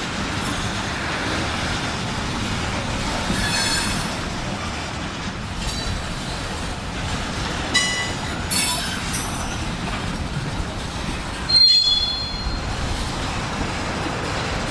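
Freight train rolling through track switches: a steady rumble of wheels on rail, broken several times by brief high-pitched wheel squeals, the loudest near the end beginning with a sharp clack.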